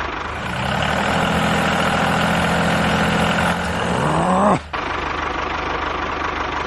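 A motor running steadily, its pitch rising quickly about four seconds in, then a sudden break into another steady machine running noise.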